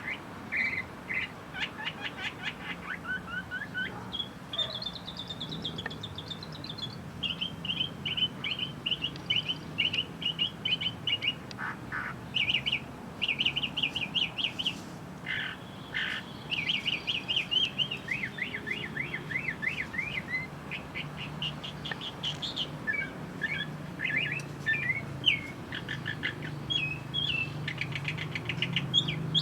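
Several small birds chirping and trilling continuously in quick, rapid runs of high notes, over a low steady hum.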